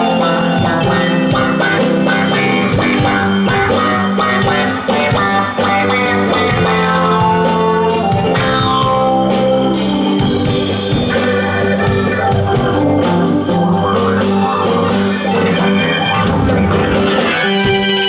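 Live rock band playing with electric guitar, drums, bass and keyboards, a full, steady mix.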